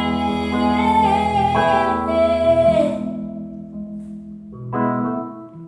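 Live music: a woman holds a long sung note with vibrato over sustained keyboard chords. About three seconds in her voice stops and the keyboard carries on alone more softly, striking a new chord near the end.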